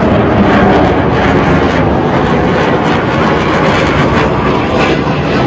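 Jet engine noise from Suryakiran aerobatic team aircraft (BAE Hawk jet trainers) flying over, a loud, steady rushing noise.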